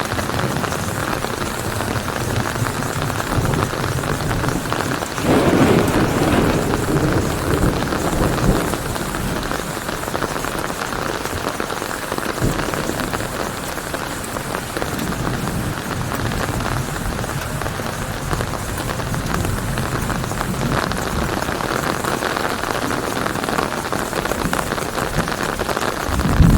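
Steady heavy rain falling on leaves, a dense even patter. A low rumble of thunder swells about five seconds in and fades by about eight seconds.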